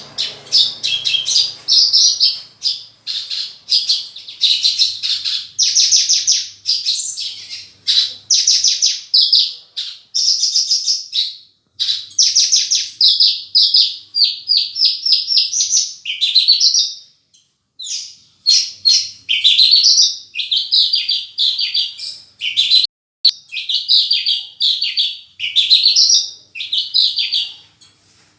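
Javan bush lark (branjangan) singing nonstop, a rapid string of high, trilled and buzzy phrases filled with mimicked calls of other birds, broken only by a couple of short pauses in the second half.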